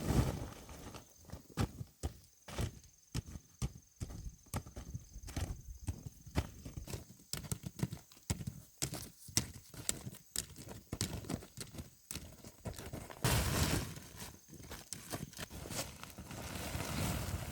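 A horse's hooves clopping at a walk, in sharp irregular knocks, with two bursts of rustling near the end.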